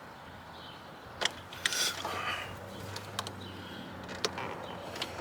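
A few sharp clicks and knocks with some scraping as plastic air-intake parts are worked loose by hand in an engine bay, over a faint steady low hum.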